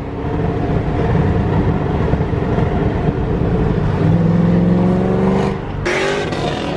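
A Pontiac Trans Am's engine running loud and hard under throttle, with a brief drop about six seconds in, like a gear change, before it pulls again.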